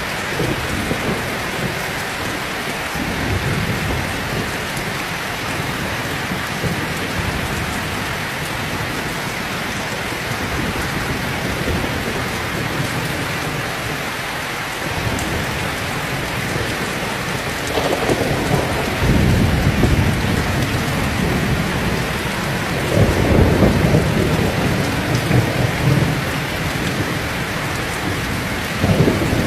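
Heavy rain pouring steadily, with thunder rumbling low several times in the second half.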